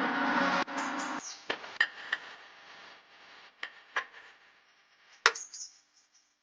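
A steady mechanical running noise that cuts off about a second in, followed by about six scattered sharp knocks and clinks, like tools or metal parts being handled, the loudest near the end.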